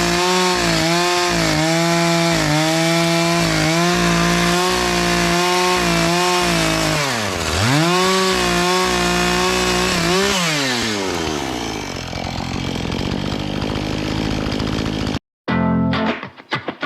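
Chainsaw cutting wood, its pitch dipping under load in quick, regular strokes, then winding down about ten seconds in as the revs fall away. After a short break near the end, guitar music starts.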